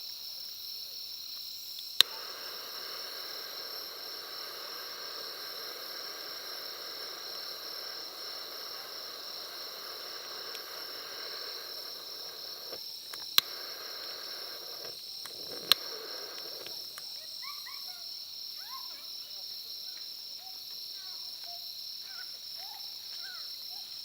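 Insects chirping steadily in a high, evenly pulsing chorus, broken by three sharp loud clicks, the first about two seconds in.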